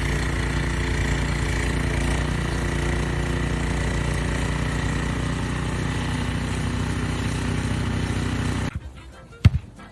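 A motor or engine running steadily with an even hum, cutting off abruptly near the end, followed by a single sharp knock.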